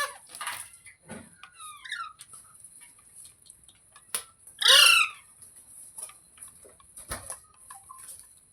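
Pet ringneck parrot squawking: a sharp call at the start, a few quick chirps about two seconds in, and its loudest harsh screech about halfway through, with scattered light clicks between, over a steady high hiss.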